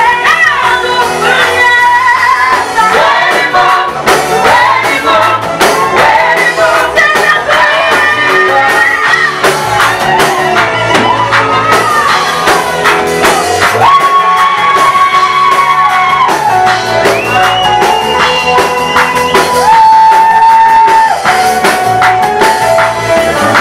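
Swahili gospel praise song performed live: singers' voices over a band with a steady beat, with long held sung notes in the second half.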